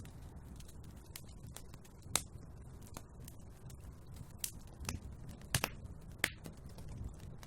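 Wood fire crackling in a fireplace: a low, steady rustle with scattered sharp pops, the loudest about two seconds in and twice between five and a half and six and a half seconds.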